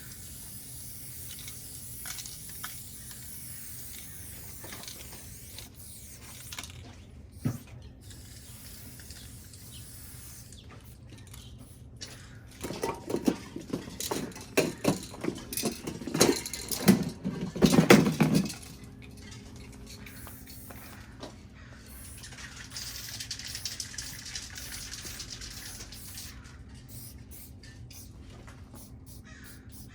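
Aerosol spray paint can being shaken, its mixing ball rattling hard for about six seconds in the middle. A few seconds later comes a short hiss of paint spraying from the can.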